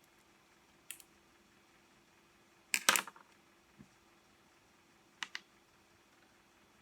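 A few sharp clicks and one short clatter of small tools and parts being handled while a reciprocating saw's gear housing is taken apart, the loudest about three seconds in, with a faint steady hum underneath.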